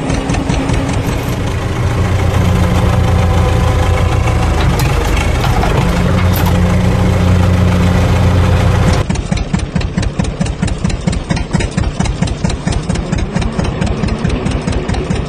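Engine running steadily. About nine seconds in it cuts abruptly to an idling engine with a fast, even chugging.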